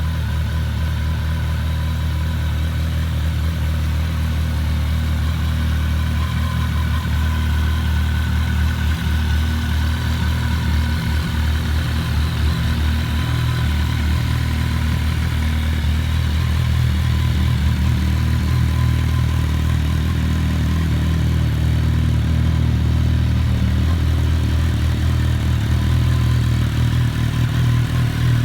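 2010 MV Agusta F4's inline-four engine idling steadily through its stock exhaust.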